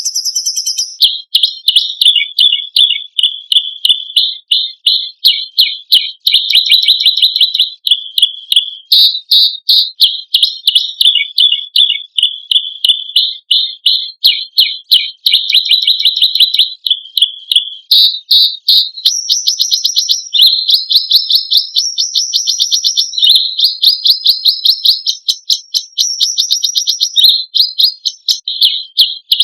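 Songbird master recording of rapid-fire 'tembakan' and harsh 'besetan' phrases: loud, unbroken trains of sharp, high chirps repeated several times a second, with shriller runs of a higher note around the middle and again near the end.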